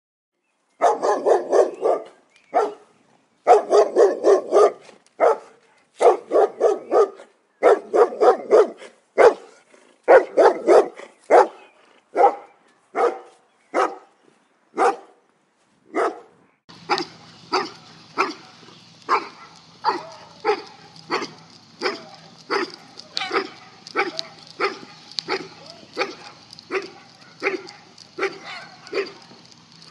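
Large dog barking. It starts with quick volleys of several barks, then gives single barks about once a second. About 17 s in a different recording takes over, with the barks coming evenly about once a second over a steady low hum and hiss.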